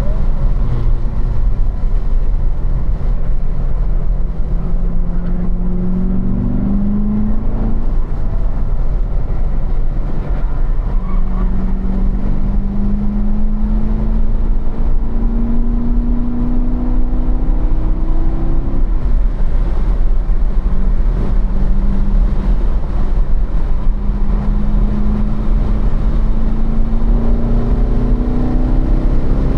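2015 Corvette Stingray Z51's 6.2-litre LT1 V8 heard from inside the cabin on track, over a steady low road rumble. The engine note climbs steadily under acceleration, falls back twice as the car slows for corners, and rises again more steeply near the end.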